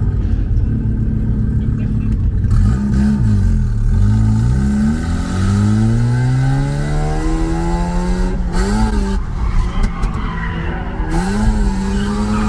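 Drift car engine revving under load with tyre squeal: the engine note dips, climbs steadily for several seconds, drops sharply about eight seconds in, then climbs again and holds.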